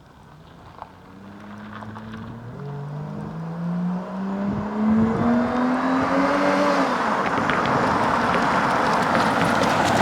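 GAZ Volga with a swapped-in Toyota 1JZ-GE inline-six and Remus exhaust accelerating hard toward the listener, getting louder. The exhaust note climbs in pitch, dropping once about two and a half seconds in as it shifts up. About seven seconds in the note falls as the car passes, leaving a loud rush of tyre and wind noise.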